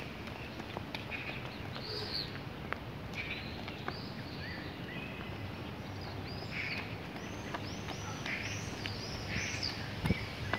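Songbirds chirping and singing, with a quick run of repeated arching notes through the middle. A few light footfalls on asphalt.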